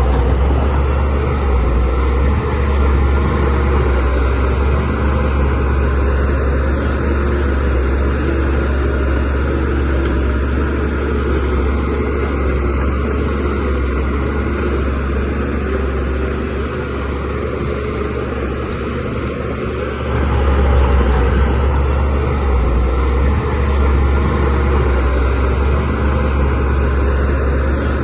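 Shantui DH17C3 bulldozer's diesel engine running under load as it works soil, with a deep steady rumble. It eases off somewhat in the middle and picks up again about two-thirds of the way through.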